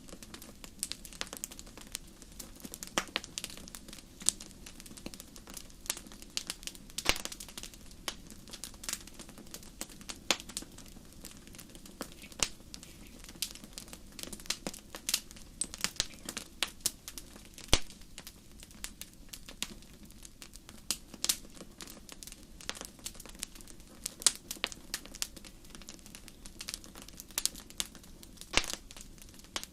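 Wood fire burning in a fireplace, crackling with many irregular sharp pops, a few louder than the rest, over a low steady rush.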